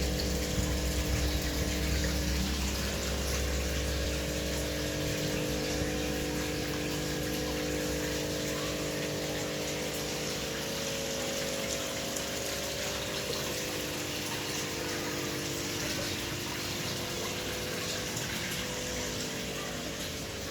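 Steady machine hum with a continuous rushing hiss, typical of an air compressor running while a spray gun sprays paint. A deep low hum under it eases off about five seconds in.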